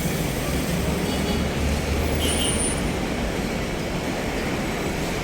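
Heavy road traffic: a steady low rumble of vehicle engines, with a brief high squeak a little over two seconds in.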